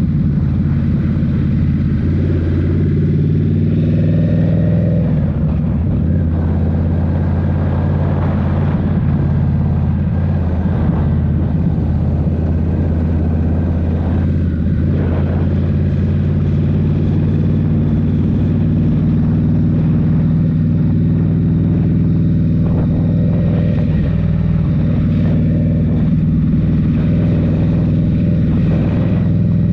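Indian Scout Rogue's 69 cu-in liquid-cooled V-twin running through a Rinehart slip-on exhaust, under way at a fairly steady engine speed with only small changes in pitch.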